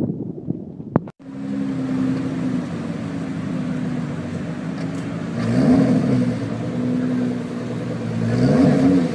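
Nissan GT-R's twin-turbo V6 running at steady high revs with its wheels spinning in snow, the car barely moving. It revs up and back down twice, near the middle and near the end. The engine starts about a second in, after a short click and a break.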